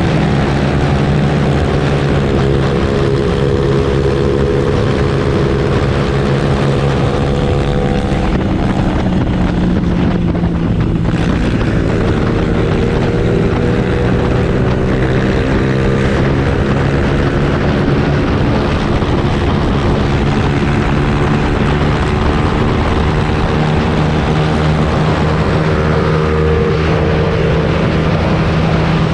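Motorcycle engine and exhaust running steadily while riding, a continuous drone whose pitch shifts a few times as the revs change.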